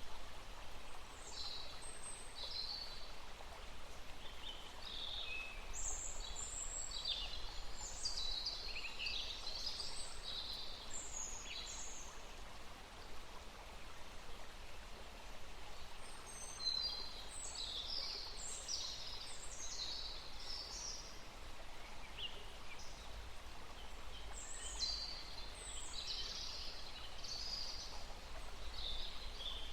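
A songbird singing in bursts of quick, falling high notes, each burst a few seconds long with pauses between, over a steady background hiss.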